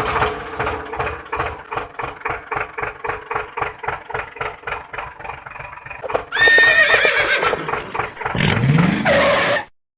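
Rapid steady clicking, about five clicks a second, for the first six seconds. Then a horse whinnies loudly from about six seconds in.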